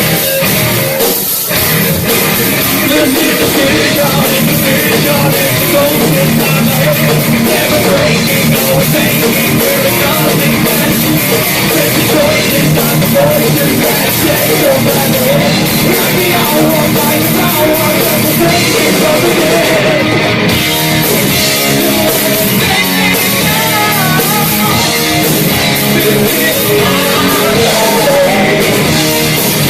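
Live metal band playing loud, continuous music, with distorted guitars and drums.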